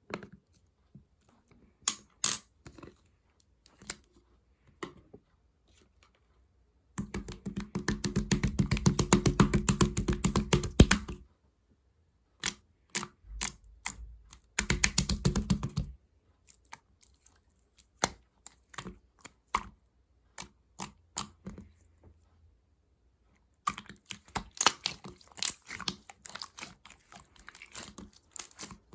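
Rainbow slime being squished and poked by hand, making scattered sticky clicks and pops. Twice it breaks into several seconds of dense, rapid crackling, the first and longer run about a quarter of the way in.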